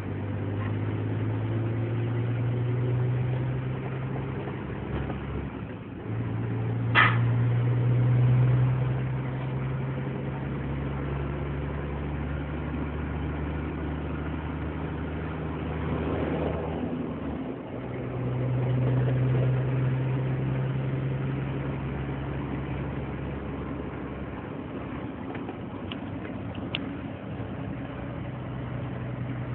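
Scania 124L truck's inline-six diesel engine running steadily. Its note drops away twice, about 6 and 17 seconds in, and then comes back. There is a short sharp click about 7 seconds in.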